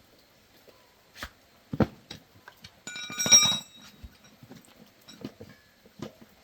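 Scattered knocks and clatter of metal parts being handled. A sharper knock comes just under two seconds in, then a brief ringing metallic clang about three seconds in.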